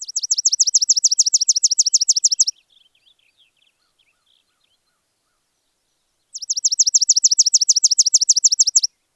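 A bird singing a fast trill of high, sweeping notes, about seven a second, in two runs of about two and a half seconds, with faint softer chirps in the gap between them.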